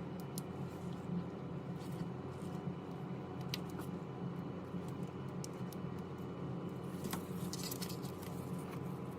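A steady low hum with a dozen or so faint, scattered small clicks and taps, a few of them bunched together near the end.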